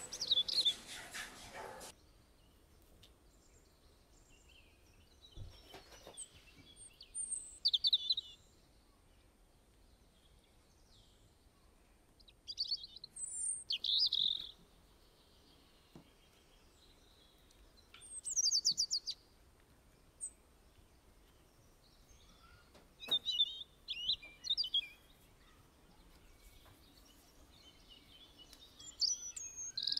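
Small songbirds chirping in short, high phrases every few seconds, with quiet between them. A busier wash of hiss and chirps cuts off abruptly about two seconds in.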